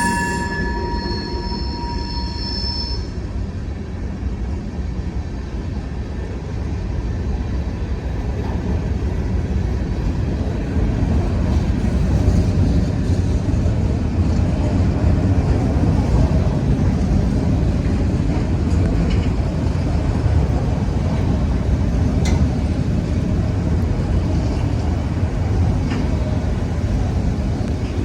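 Freight train rolling past, a continuous low rumble of cars on the rails that grows louder about ten seconds in. In the first few seconds a high, ringing wheel squeal fades away.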